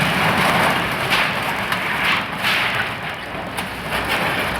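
Building demolition: a dense crackling, crunching din of material breaking and debris falling, with several louder crunches and a low rumble underneath.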